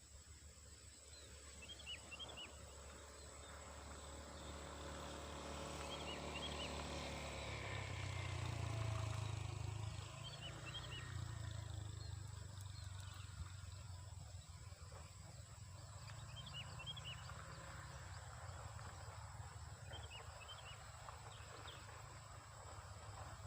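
Open-field ambience with a small bird giving short clusters of quick high chirps every few seconds. A low engine hum swells to its loudest about a third of the way through and then slowly fades, like a motor vehicle passing at a distance.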